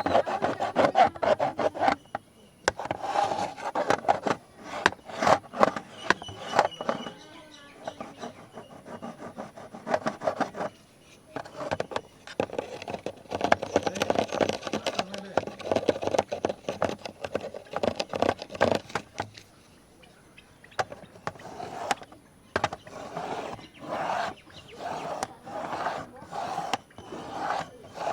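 Fingernails scratching a large camera's body in quick runs of rapid strokes and clicks, broken by a few short pauses.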